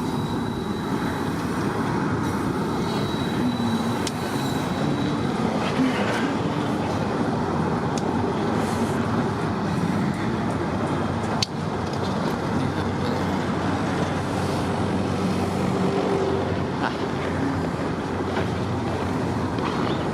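Freight cars of a long container train rolling steadily past, wheels running on the rails, with one sharp click about halfway through.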